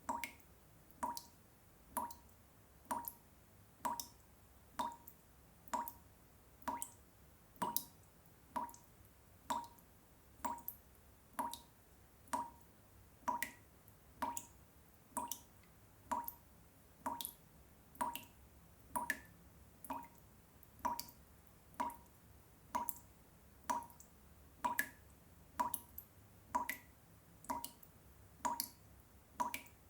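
Water drops falling one by one into water, a short plink about once a second in a steady, even rhythm.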